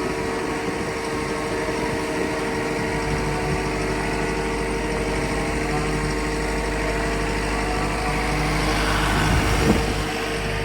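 New Holland C362 skid steer's diesel engine running steadily, with a single sharp clunk near the end.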